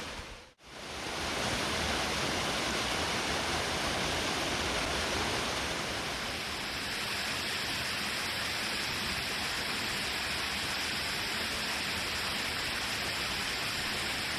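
Water of a small waterfall on a mountain stream, rushing and splashing steadily. It cuts out briefly about half a second in, then carries on evenly.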